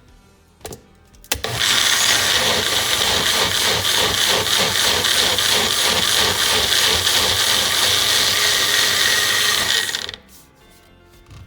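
Electric blender running for about eight seconds, pureeing blanched spinach, switching on and off abruptly. A few short clicks come just before it starts.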